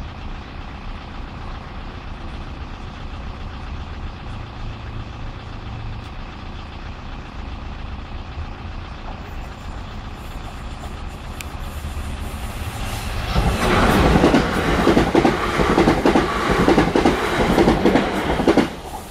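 South West Trains class 444 electric multiple unit passing over the level crossing. It builds up over the last third, then gives a loud clatter of wheels on the rails for about five seconds, which drops away suddenly just before the end.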